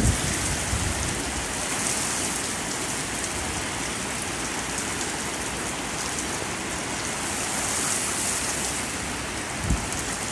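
Heavy thunderstorm rain pouring down in an even, steady hiss that swells slightly about eight seconds in. A short low thump comes near the end.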